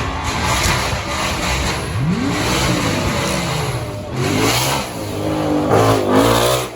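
Supercar engine revved several times, each rev rising and falling in pitch, the last dropping away sharply at the end.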